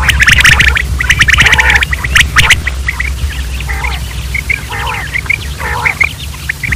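Quails calling: a loud, dense run of harsh squawking chatter for the first couple of seconds, then scattered shorter chirps and calls, over a steady low hum.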